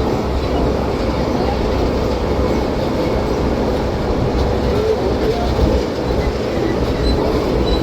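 Disneyland Resort parking tram, a tractor-pulled open-sided trailer on rubber tyres, running steadily under way, heard from aboard: a continuous low rumble of engine and road noise with a faint steady hum.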